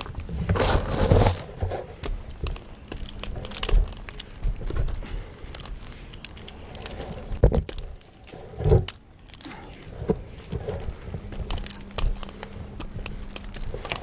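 Metal climbing hardware, carabiners and rigging rings, clinking and jangling in irregular bursts, with a couple of louder knocks in the middle. A faint steady hum runs underneath at times.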